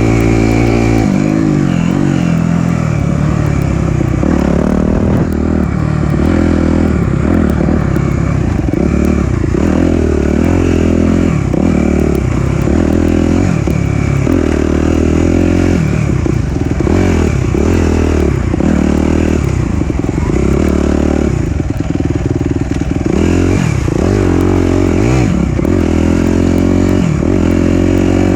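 Suzuki RM-Z250 four-stroke dirt bike engine running under a rider's throttle on a trail, its pitch rising and falling again and again as it revs up and backs off.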